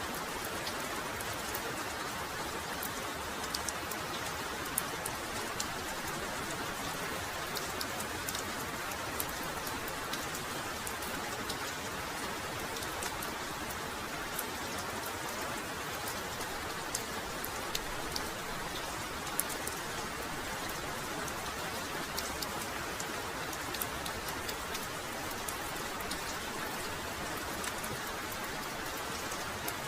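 Heavy rain pouring steadily, with a dense patter of individual drops ticking close by.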